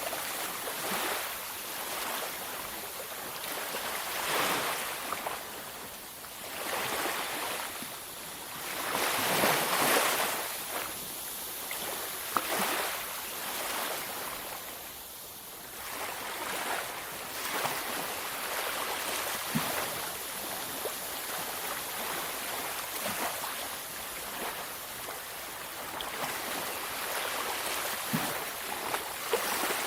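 Ocean waves breaking and washing up on a beach, the surf swelling and fading every few seconds, with one larger wave about a third of the way in.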